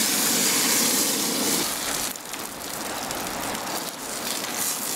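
Snapper fillets sizzling in hot oil and butter in a frying pan on a camp gas stove as they are turned with a spatula and tongs. The sizzle is loudest for about the first two seconds, then drops to a quieter steady sizzle.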